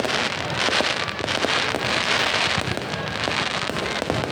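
Fireworks crackling densely, many small pops running together into a continuous crackle.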